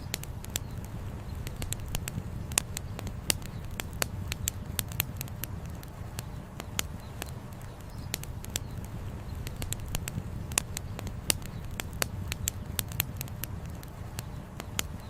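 Wood campfire crackling, with frequent irregular snaps and pops, over a steady low rush of flowing river water.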